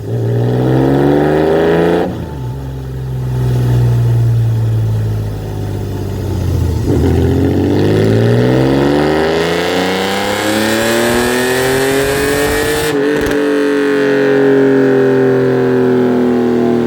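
Engine with a full aftermarket exhaust system revving under load on a dynamometer. The pitch climbs in pulls, breaking about 2 seconds in and again near 13 seconds, then holds high and slowly eases down.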